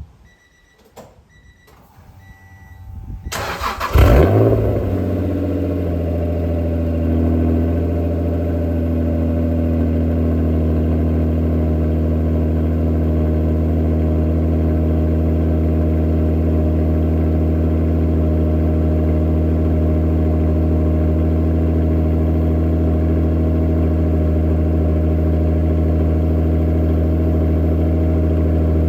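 A few short beeps, then the NSX's V6 engine is cranked by the starter and catches about four seconds in on a cold start. It flares up in revs and then settles within a couple of seconds into a steady fast idle.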